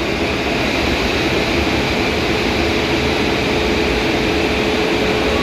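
Steady machinery noise of a ship's engine room, a continuous drone with a faint steady hum.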